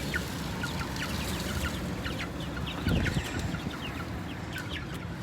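A flock of young pullets peeping and cheeping: many short, high calls that slide downward in pitch, overlapping throughout. A brief low thump or rumble about three seconds in.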